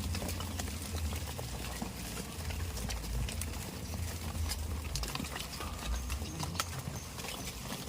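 Goats moving and feeding, with scattered small clicks and rustles over a steady low rumble; no bleating.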